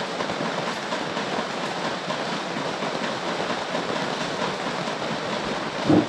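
Heavy rain falling steadily, an even hiss. Near the end there is one brief, louder thump.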